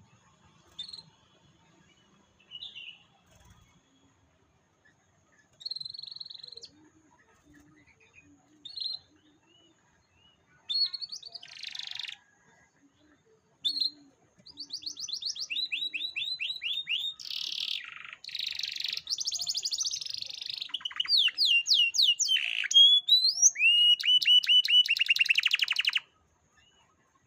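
Canary singing: a few short scattered chirps, then from about halfway a long song of fast repeated trills and warbles that stops suddenly near the end.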